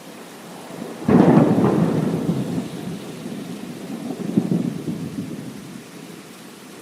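A thunderclap breaks out suddenly about a second in and rumbles on, fading over several seconds with a second swell partway through, over a steady hiss of rain.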